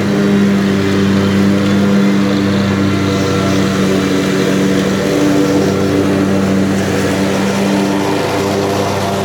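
A lawn mower engine running steadily at mowing speed, with an even, unchanging pitch.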